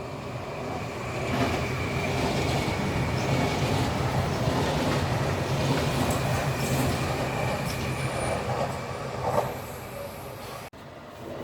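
Train running on the rails: a steady rumble with a faint high squeal from the wheels. It cuts off abruptly near the end.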